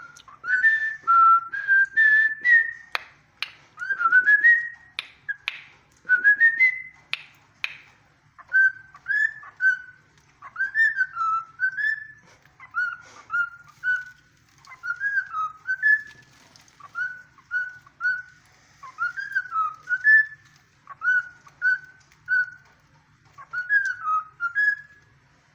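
Cockatiel whistling and singing a learned song: phrases of short, sliding whistled notes, with sharp clicky notes mixed in over the first several seconds.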